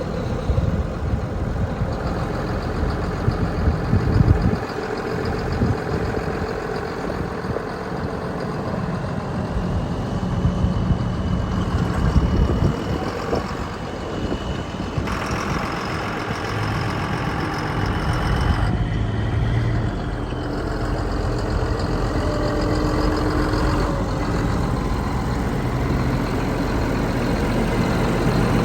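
John Deere 7720 tractor's six-cylinder diesel engine running steadily, its tone shifting a few times along the way.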